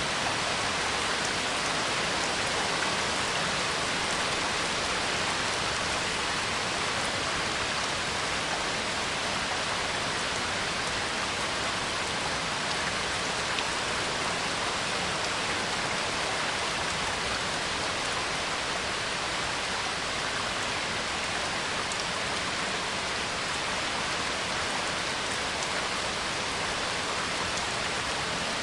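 Steady rain falling, a continuous even hiss that neither builds nor lets up.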